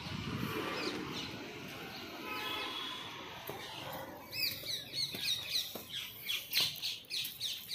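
Small birds chirping in quick, repeated short calls that rise and fall, getting busier about halfway in, with a few sharp taps among them.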